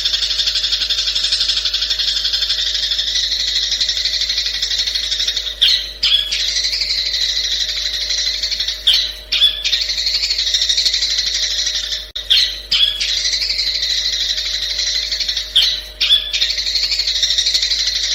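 Long-tailed shrike (cendet) singing a fast, continuous chattering song in long phrases of a few seconds. Each phrase is broken by a brief pause with sharp chips, four times.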